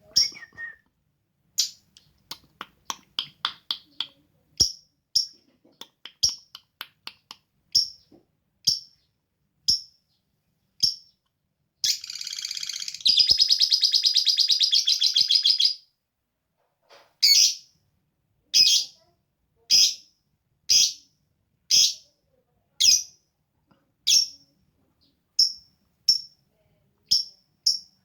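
Pet lovebird chirping: short, high chirps mostly about one a second, with a quick run of them near the start and a dense, rapid chattering stretch of about four seconds in the middle.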